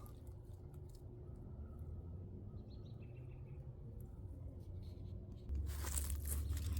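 Quiet outdoor ambience with a faint bird chirp about three seconds in, then a low rumble and rustling near the end.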